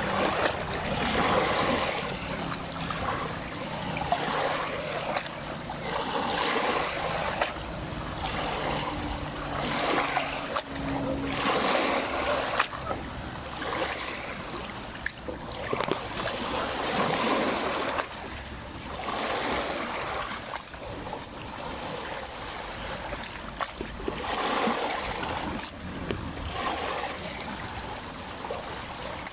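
Small lake waves lapping and splashing against the shore in repeated surges every second or two. A faint boat motor hum runs under the first half.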